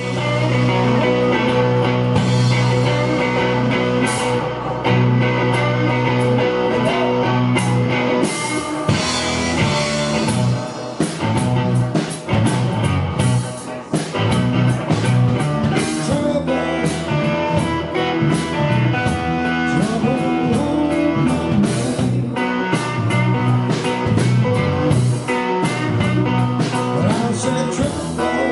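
A live rock band playing a song, with guitar to the fore.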